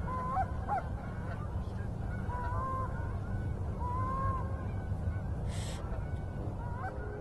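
Canada geese honking, with scattered short honks at first and a couple of longer drawn-out honks in the middle, over a steady low rumble. A brief rustle sounds about five and a half seconds in.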